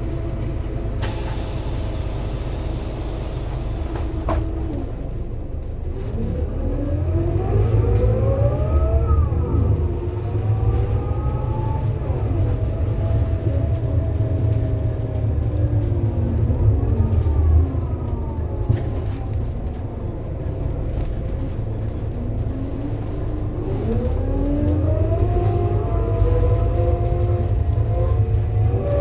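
Scania Lahti Scala K230UB city bus with a ZF Ecomat six-speed automatic gearbox. A short hiss of air comes about a second in while the engine idles. The bus then pulls away, its engine rising in pitch through the automatic's upshifts, eases off and slows down, and accelerates again near the end.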